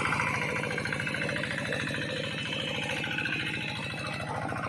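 Engine of a small rice-paddy tractor running steadily with a rapid, even chugging.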